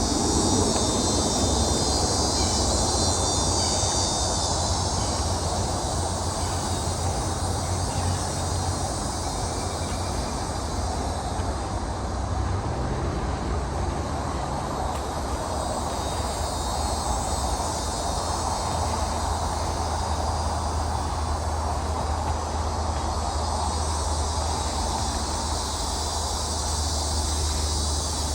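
Swamp ambience: insects trilling in a steady high band over a steady low rumble.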